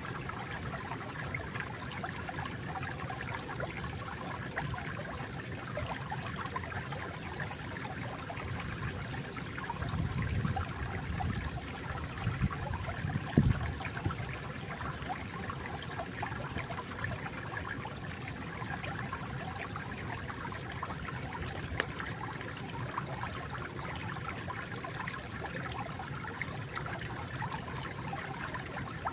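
Flowing water trickling steadily, with a couple of brief louder, deeper swells around the middle.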